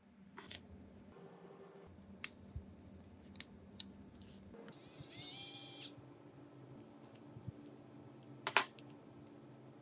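Scattered small clicks and taps of hand tools and parts being handled, with a hissing burst of about a second in the middle and a sharp double click near the end.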